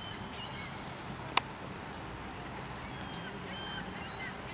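Small birds chirping in short, scattered calls over a steady low background hum, with one sharp click about a second and a half in.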